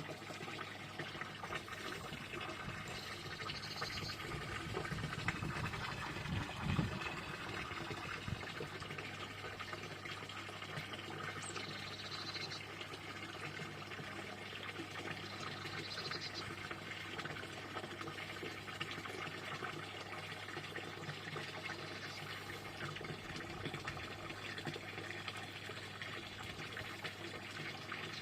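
Water running steadily, with frogs giving short high calls every few seconds over it. A brief low thump about seven seconds in.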